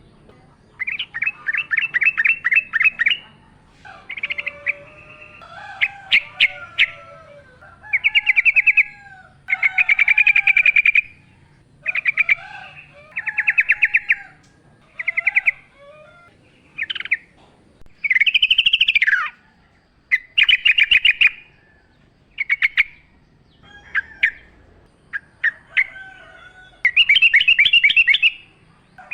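Yellow-vented bulbul singing: loud, rapid, bubbly trilled phrases repeated every second or two, with softer, lower calls of other birds in between.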